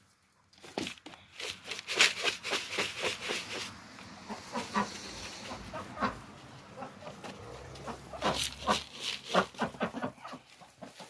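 Chickens clucking over a rapid, irregular clatter of clicks and taps. The clatter is busiest in two spells, one starting about a second in and one about eight seconds in.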